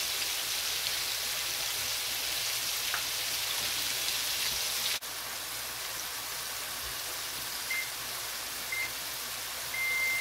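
Homemade French fries frying in a deep skillet of hot oil: a steady, even sizzle of bubbling oil. Near the end a timer beeps twice briefly, then once longer, as the fries' 25-minute frying time runs out.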